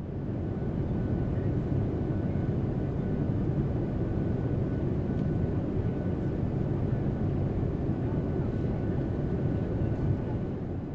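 Steady low rumble of a jet airliner's engines heard from inside the cabin. It swells in over the first second and begins to fade near the end.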